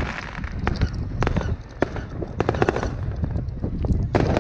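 Fireworks going off in a display: a rapid, irregular string of sharp bangs and crackles over a continuous low rumble.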